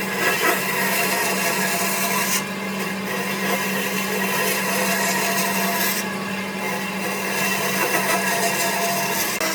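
An electric power tool running and working wood: a steady motor hum under a dense cutting and abrading noise. Its character changes abruptly twice.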